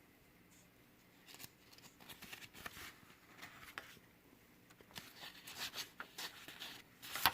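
Faint rustling with scattered small clicks, coming and going in short bursts and busiest a little past the middle.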